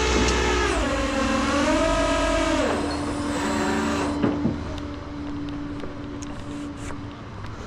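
A siren wailing, its pitch sliding down, back up and down again, then fading out after about four seconds, with a couple of sharp knocks near the fade.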